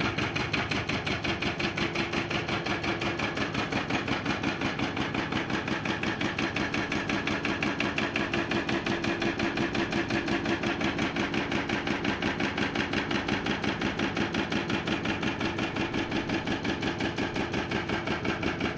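Hydraulic breaker hammer on a Komatsu PC490 excavator pounding rock in a rapid, steady train of blows, with the excavator's diesel engine running under load beneath it.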